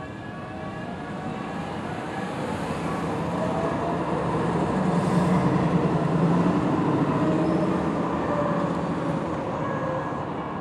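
Los Angeles Metro light-rail train passing, its running noise building to a peak about halfway through and then fading, with faint gliding whines over it.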